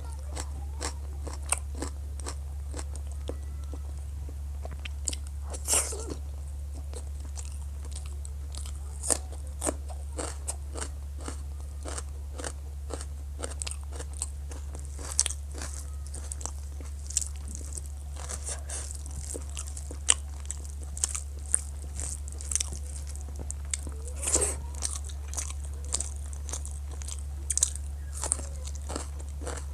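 Close-up eating sounds: irregular crunches, bites and sharp mouth clicks as rice and fried foods are chewed, a few louder crunches standing out, over a steady low hum.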